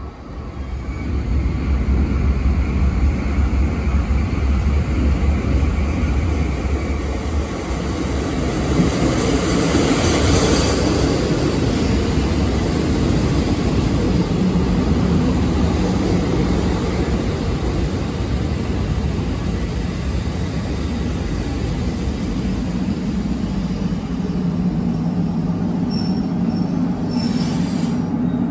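Abukuma Express 8100-series electric train running into the station and slowing: a steady rumble of wheels on rail that builds over the first two seconds as it arrives. This series has no electric brake and stops on its air brakes alone; near the end a thin high squeal and a short hiss come in as it draws to a halt.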